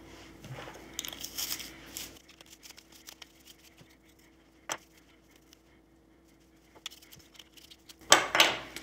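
Hair being scraped, cut and pulled off a Roomba's brush: bursts of rustling and scraping, two sharp clicks in the quieter middle, and a louder scrape near the end.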